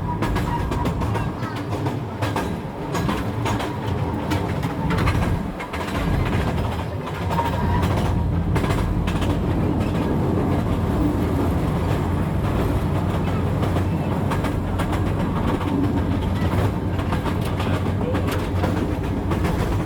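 A train running on rails: a steady low rumble with the wheels clicking over the rail joints.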